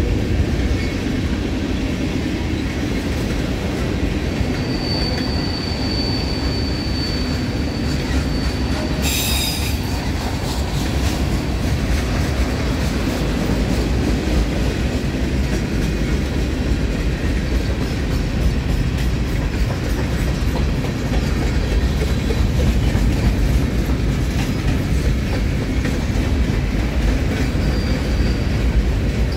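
Freight train cars rolling past with a steady low rumble and wheel clatter. A high, steady wheel squeal comes in about four seconds in and holds for about four seconds. A short, sharp screech follows about nine seconds in, and a brief squeal comes near the end.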